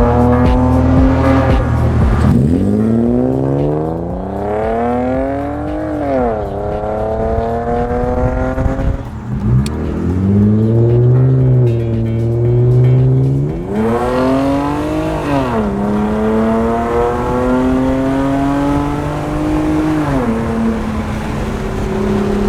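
Loud exhaust of a 1995 BMW E36 M3 straight-six with the muffler deleted, accelerating repeatedly. The pitch climbs and falls back several times, then settles to a lower steady drone near the end.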